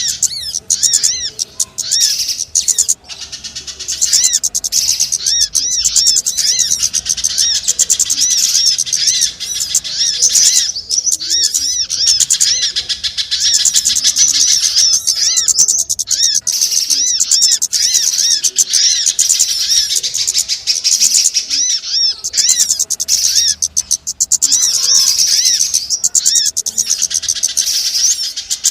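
Dense, unbroken chattering of many small birds: rapid high chirps and short arching notes overlapping without pause, from a bird-trapping lure call recording (suara pikat) made to draw in small birds.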